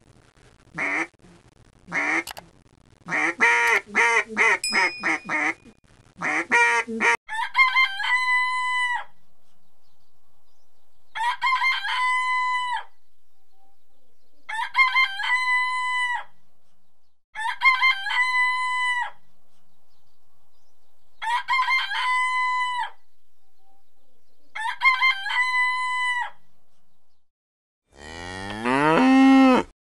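Chickens clucking in short, choppy bursts for several seconds, then a rooster crowing six times at even intervals, each crow alike. Near the end a cow starts mooing.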